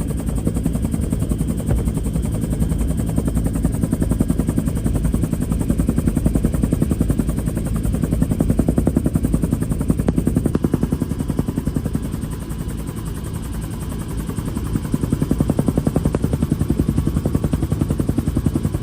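Helicopter rotor chopping in a fast, steady beat, dipping a little in loudness midway and swelling again near the end.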